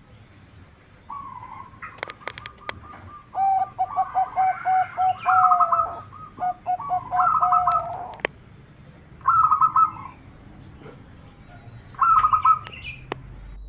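Zebra dove (perkutut) song: rapid, even trains of short cooing notes, with a long run in the first half and two shorter bursts later on.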